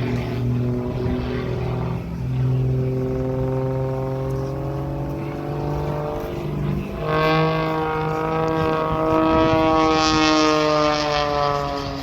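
Propeller airplane engine droning as it flies past, its pitch sliding slowly down. A louder engine note comes in about seven seconds in and also falls in pitch.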